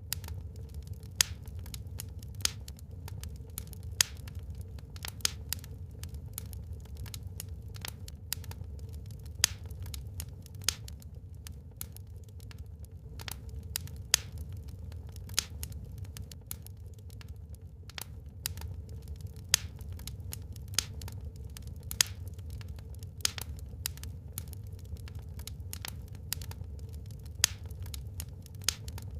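Wood fire crackling in a fireplace: irregular sharp pops and snaps, a dozen or so louder than the rest, over a steady low rumble.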